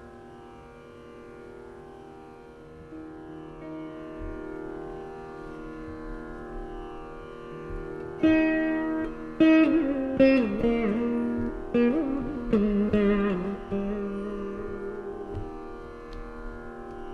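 Carnatic veena playing in raga Khamas: soft, lingering notes for the first half, then louder plucked phrases with sliding, bending pitches from about eight seconds in.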